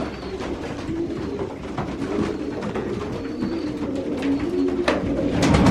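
Racing pigeons cooing, several birds at once in low, wavering, overlapping calls, with a few sharp knocks near the end.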